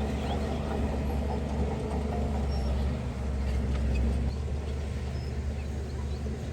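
Heavy construction machine's diesel engine running steadily with a deep low rumble, with faint short high chirps above it.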